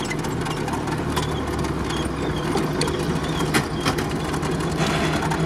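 GAZ-69 off-roader's engine running steadily, heard from inside the open-framed cab, with a few sharp knocks and rattles of the body over the track.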